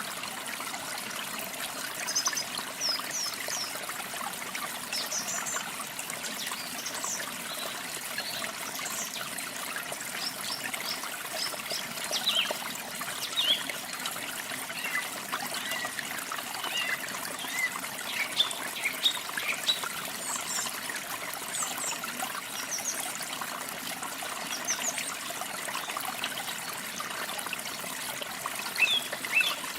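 Water trickling steadily, with small birds chirping in short, high notes throughout, busier near the end.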